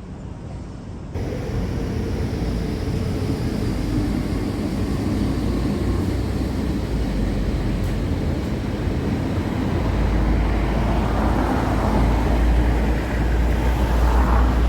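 MTR Q-Train metro train running, a steady rumble and rail noise that jumps up about a second in and grows louder from about ten seconds in.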